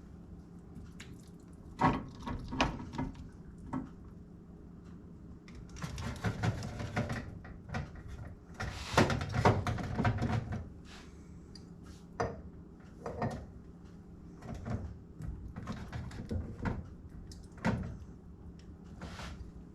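Kitchen work being done by hand: scattered knocks, clinks and rustling scrapes of dishes and utensils being handled, over a steady low hum.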